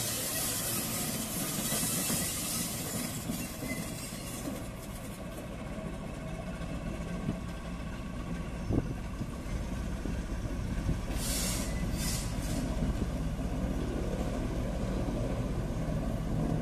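Train of passenger coaches rolling past and drawing away, a steady rumble of wheels on rails with a hiss that fades after the first few seconds. A few short hisses come about eleven to thirteen seconds in.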